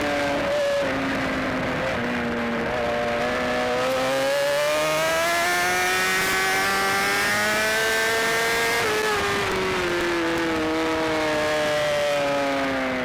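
BMW S1000RR inline-four engine at race speed, heard from on the bike. Its pitch steps a few times in the first seconds, then climbs steadily for several seconds under hard acceleration. About two-thirds through it drops and falls away as the bike slows.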